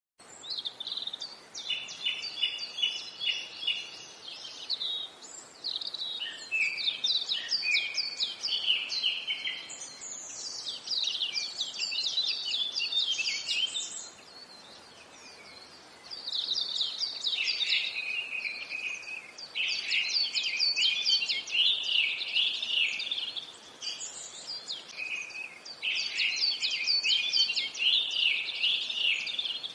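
Songbirds singing: dense phrases of rapid, high chirps, each lasting a few seconds, one after another, with a brief lull about halfway through.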